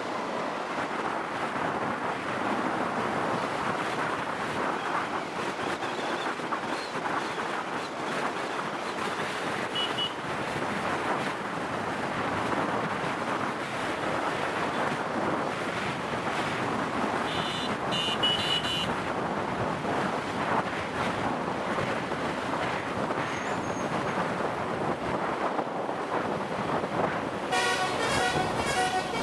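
Wind buffeting the microphone over the running noise of a motorcycle on a hill road. A vehicle horn honks twice, about two-thirds of the way in and again near the end.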